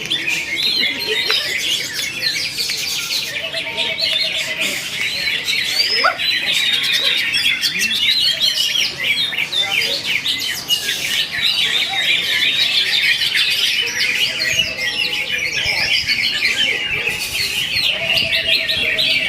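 Cucak hijau (green leafbird) singing a continuous, rapid stream of varied chirps, whistles and trills without pause.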